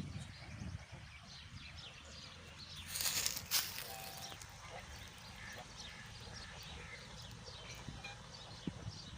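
Outdoor ambience of birds chirping: many short, high chirps scattered throughout, with a brief rushing noise about three seconds in.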